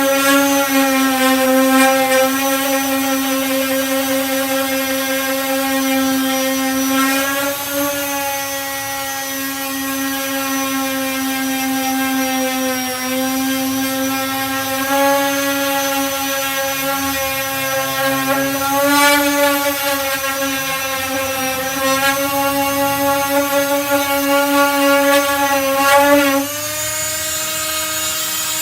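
Disc sander running with 240-grit sanding discs, working down body filler: a steady, loud motor whine whose pitch wavers slightly as it is worked over the surface. It dips in pitch and loudness near the end, then picks back up.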